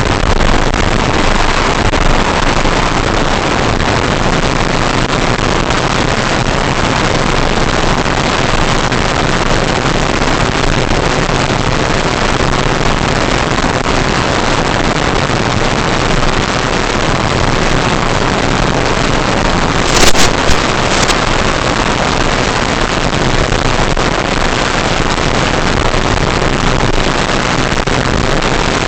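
An electric RC Cessna 182 in flight: a loud, steady rush of wind and propeller noise, with a faint steady motor hum. Two or three sharp cracks come about twenty seconds in.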